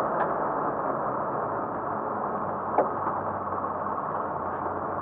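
Cabin sound of a 1960 Saab 93F with its 850 cc three-cylinder two-stroke engine running at low revs as the car slows, mixed with road and wind noise. A single sharp click comes a little under three seconds in.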